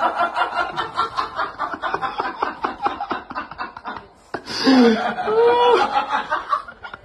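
A person laughing in quick, rhythmic snickers for about four seconds. After a short break, a high voice sounds with its pitch sliding up and down.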